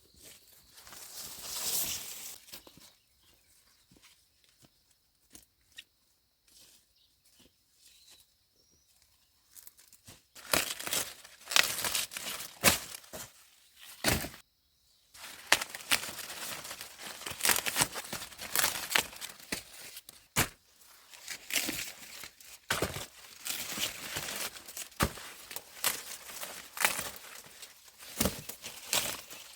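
Dry corn leaves and husks rustling and crackling as corn is picked by hand, with many sharp snaps. It is fairly quiet for the first ten seconds, then the rustling becomes dense and irregular.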